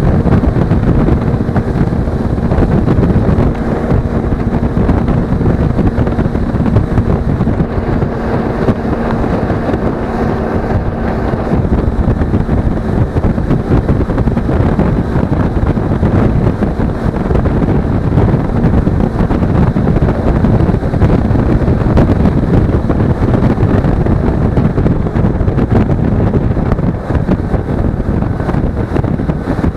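Heavy wind buffeting on an action camera's microphone while riding a Suzuki V-Strom 250 motorcycle, with the twin-cylinder engine's steady hum underneath. The engine's tone is audible for the first dozen seconds or so, then is mostly covered by the wind.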